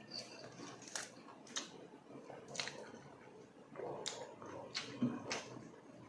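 Close-up mouth sounds of someone chewing stewed fish: wet smacks and clicks every half second to a second. Near the end he drinks from a glass mug of water.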